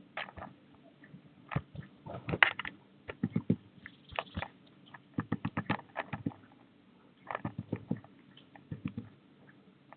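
Clusters of sharp taps and clicks from a bird at a feeder right beside the microphone, coming in irregular bunches with short gaps between them.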